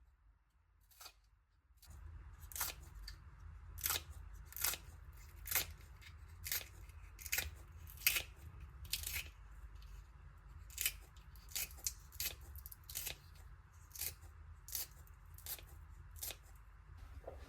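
Food being cut in a kitchen: a regular series of crisp cutting strokes, a little more than one a second, beginning about two seconds in over a low steady hum.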